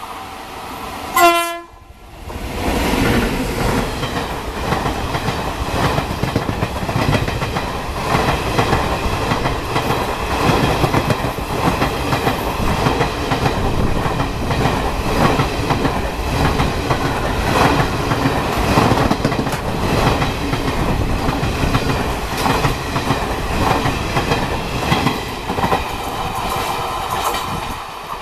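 Short, loud horn blast from a WAP-7 electric locomotive about a second in. Then the Duronto Express's coaches pass close at speed: a loud, continuous rush with repeated wheel clatter over the rail joints.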